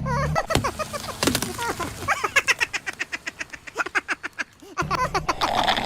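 Rapid crackling and crunching clicks mixed with short squeaky chirps as something is crushed under a car tyre, densest in the middle.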